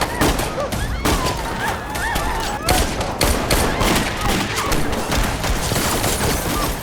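Bursts of gunfire, many shots in quick succession, with people screaming among them.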